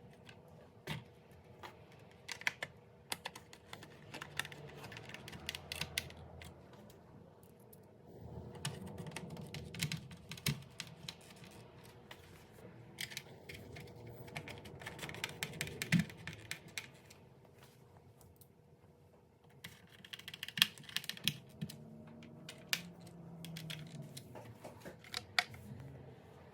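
Hands working on a dishwasher's control board and door panel: irregular small plastic clicks and taps with soft rustling, at times in quick clusters.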